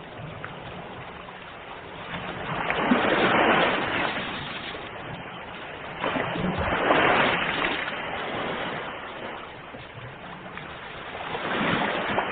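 Ocean waves breaking: three louder surges of surf about four seconds apart over a continuous wash of water.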